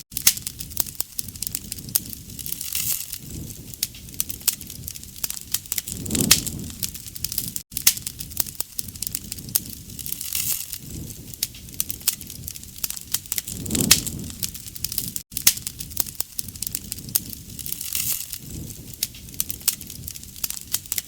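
Wood fire burning, with dense crackling and sharp pops and a low rush of flame that swells every few seconds.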